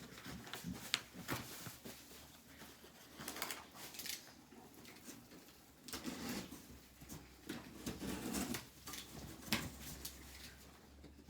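Irregular clicks, taps and rustling from hands working with parts and tools during installation work.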